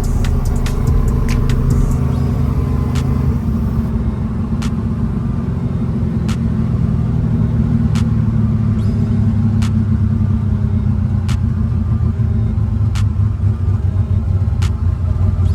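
Car engine and exhaust running with a steady, deep rumble, with a sharp click about every second and a half.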